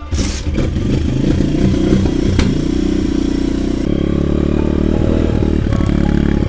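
Avantis 150 Classic pit bike's single-cylinder four-stroke engine running as the bike is ridden, with a single sharp clack about two and a half seconds in.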